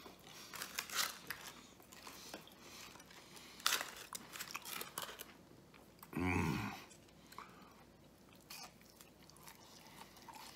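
A man biting and chewing fried breaded mozzarella sticks close to the microphone, with scattered crisp crunches. A short hummed voice sound from the eater a little after six seconds in is the loudest moment.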